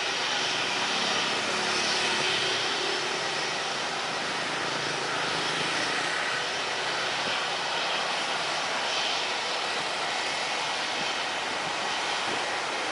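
Jet airliner engines running: a steady rushing noise with faint whining tones above it.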